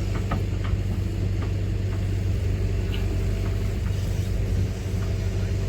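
Heavy diesel engine of earthmoving machinery running steadily with a low hum, with a few scattered clicks and knocks over it.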